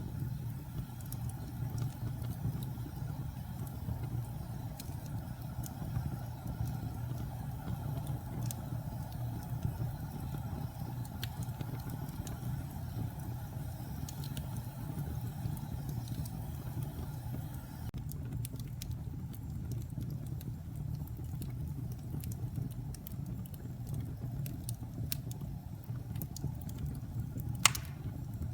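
Wood fire burning in a fireplace: a steady low rumble of flames with scattered small crackles, and one sharp, loud pop near the end.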